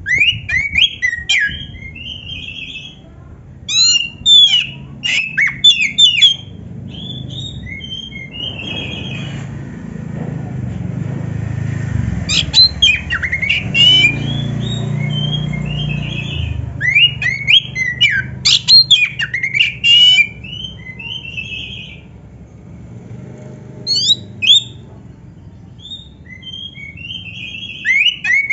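Oriental magpie-robin (kacer) singing in repeated bursts of rapid, varied whistles and chatter, including canary-like phrases, with a low rumbling background noise through the middle.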